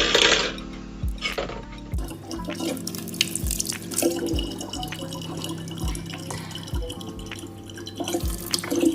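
Running water splashing and dripping, over background music with a steady low beat.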